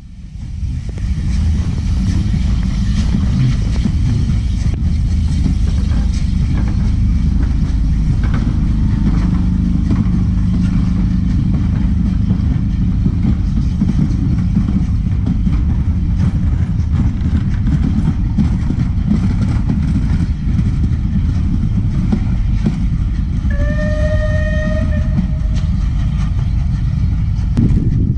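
A train running past with a steady heavy rumble and wheel noise on the rails. Near the end the train's horn sounds one note for about two seconds.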